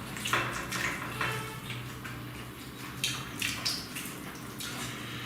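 Wet eating noises of parotta and duck curry eaten by hand: smacking, squelchy chewing and mixing, coming in short irregular bursts.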